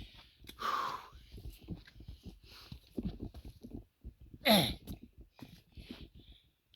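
A hiker's heavy breathing while climbing a steep rocky trail: repeated hard exhales, with one loud downward-sliding groan about four and a half seconds in.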